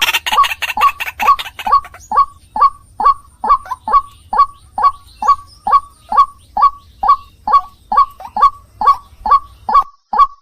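White-breasted waterhen (ruak-ruak) calling: a loud, evenly repeated series of short calls, each a quick falling note, about two a second. The calls overlap more busily for the first two seconds.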